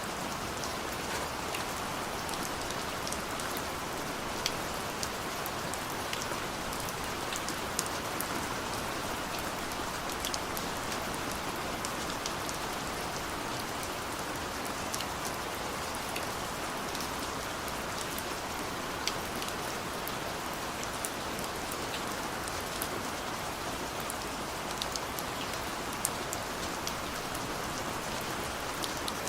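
Steady rain falling, an even hiss with scattered sharp drip ticks of individual drops landing on a surface.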